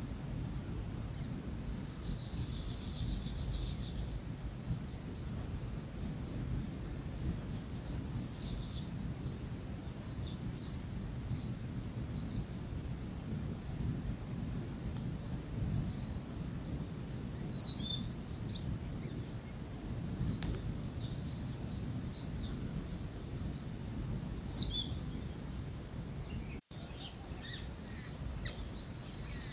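Birds chirping now and then in short calls over a steady low background rumble.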